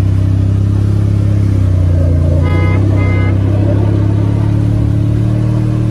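A motor vehicle's engine running with a steady low drone. About two and a half seconds in come two short, flat-pitched beeps.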